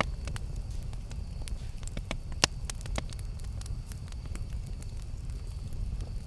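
Campfire burning, with a steady low rumble and irregular sharp crackles and pops, the loudest pop about two and a half seconds in.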